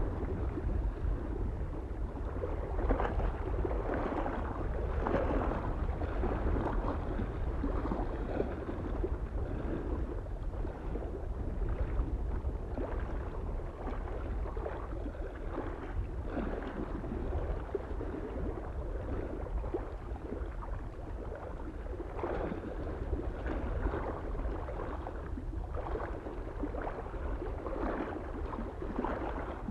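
Small waves lapping irregularly against a lake shore, each wash swelling and fading every second or two, over a steady low rumble of soft wind.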